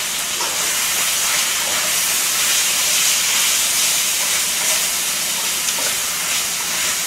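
Pork belly and kimchi sizzling in rendered pork fat: a steady frying hiss.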